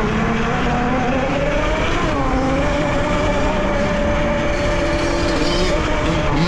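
Electric dirt bike's motor whining, its pitch rising and falling with speed, over a steady rushing noise.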